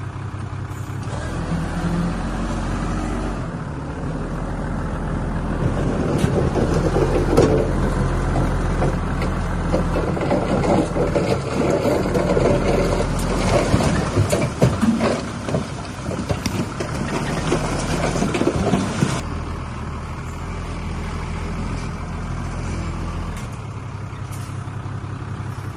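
Heavy diesel earthmoving machinery running steadily, with a long stretch of crackling, rumbling loose soil and rock being moved from about six seconds in until near the twenty-second mark.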